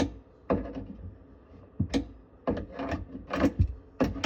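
A series of irregular knocks and clunks from plumbing tools and faucet parts being handled and set down during a faucet installation, each short with a brief ring.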